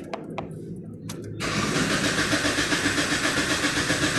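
Dodge Caliber engine being cranked by the starter, kicking in suddenly about a second and a half in after a few clicks, with an even pulsing rhythm. It is slow to fire because both camshaft position sensors are unplugged.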